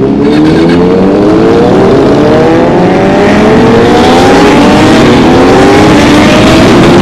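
Motorcycle engine accelerating hard, its pitch climbing steadily over several seconds.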